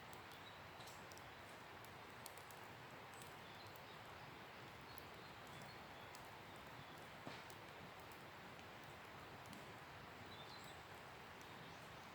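Wood campfire crackling quietly: irregular small snaps and pops over a faint steady hiss, with one louder pop about seven seconds in.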